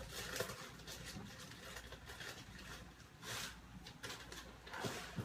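Faint handling noises: a few short rustles and soft knocks, with the loudest bursts about a third of a second in, just after a second in, past three seconds in and near the end.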